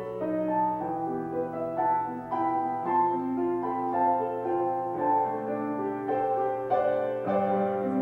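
Keyboard playing a slow, gentle instrumental, note after note held and overlapping, with a fresh chord struck near the end.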